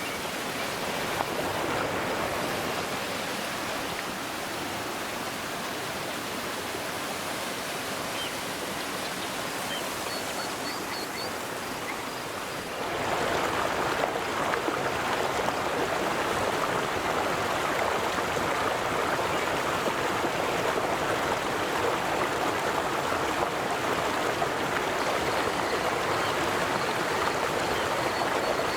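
River water flowing and rushing steadily over its bed. About halfway through, the rush jumps to a louder, fuller level and then stays steady.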